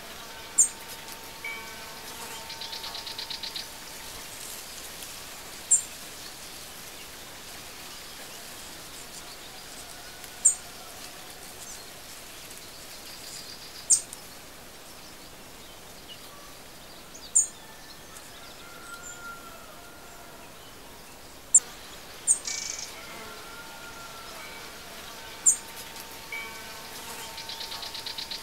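Birds chirping: short, sharp, high chirps every few seconds, with a few buzzy trills and faint lower whistles, over a steady hiss.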